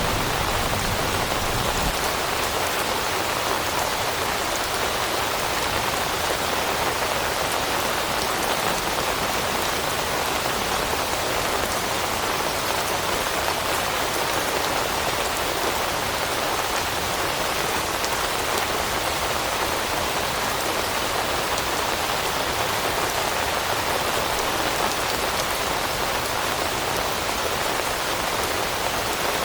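Steady rain falling on leaves and foliage, an even patter of raindrops.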